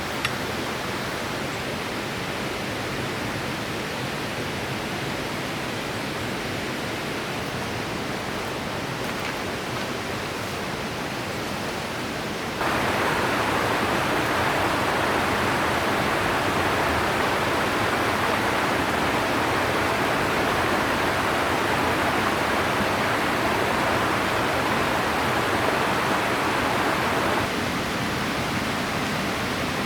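River water rushing steadily over rocks. It jumps louder and brighter about twelve seconds in, then drops back somewhat near the end.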